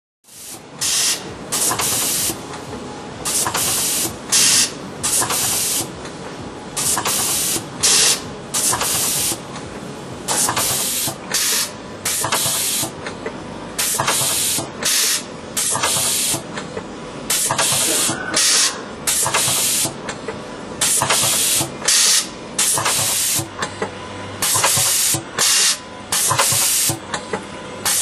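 Colombi C513T CNC spring coiler running, a steady machine hum under short hissing bursts that come two or three at a time and repeat about every three and a half seconds.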